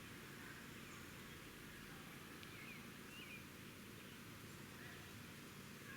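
Faint outdoor ambience with a few short, distant bird chirps.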